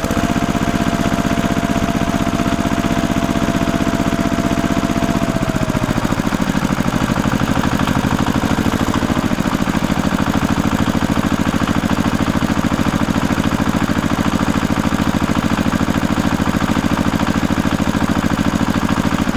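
Small engine running steadily, its speed and pitch dropping about five to six seconds in, then running on at the lower speed.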